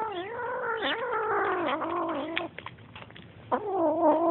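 Kitten growling over its food at the bowl: one long wavering growl lasting about two and a half seconds, then a shorter growl near the end. It is food-guarding aggression.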